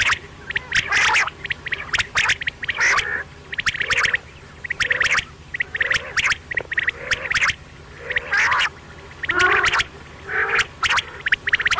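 Quail calling over and over: bursts of rapid, clicky chattering notes about once a second, with a faint steady low hum underneath.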